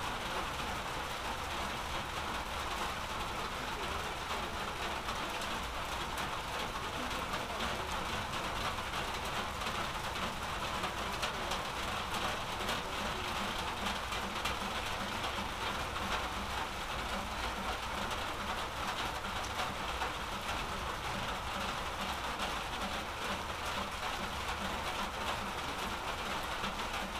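Steady rain falling, a continuous hiss of many small drop ticks that keeps an even level throughout.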